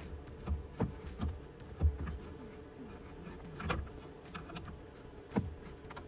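Scattered clicks and knocks of a car radio head unit and its wiring being handled and pushed into the dash, over a faint steady hum.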